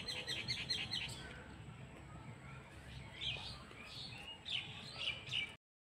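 Small birds chirping: a quick run of short, high chirps in the first second, then scattered chirps through the rest.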